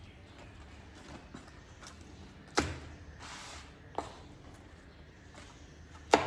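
Three sharp knocks from kitchen work, about a second and a half to two seconds apart, the first and last loudest, over a low steady background.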